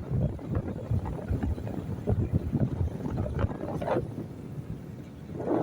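Wind buffeting the microphone of a moving motorcycle, a rough, fluttering low rumble. A louder, mid-pitched sound swells up near the end.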